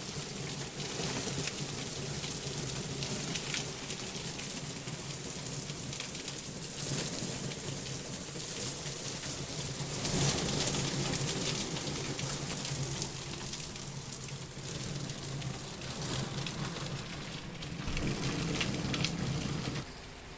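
Heavy rain pouring down in a dense, steady hiss that swells and eases in waves. The level drops abruptly near the end.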